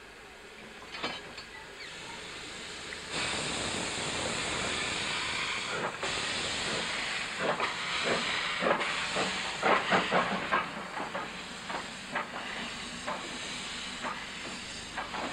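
Beyer, Peacock-built narrow-gauge steam locomotive hissing steam, growing louder about three seconds in, with irregular clanks and knocks through the second half.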